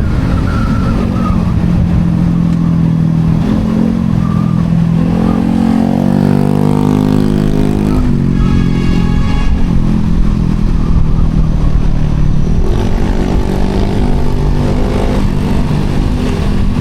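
Yamaha Sniper 155R's single-cylinder engine running under way, with steady wind noise on the microphone. About five seconds in the engine note climbs as it accelerates, then drops sharply about eight seconds in and settles again.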